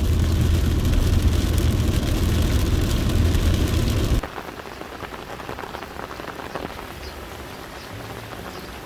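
Heavy rain falling, with a deep steady rumble beneath it. About four seconds in it cuts abruptly to lighter, quieter rain in which separate drops can be heard.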